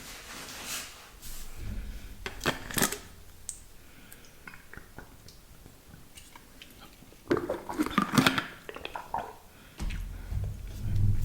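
Close-miked wet ASMR mouth sounds of spit painting: scattered sharp wet clicks and smacks, with a dense run of crackling clicks about two thirds of the way through and low rubbing rumbles near the start and end.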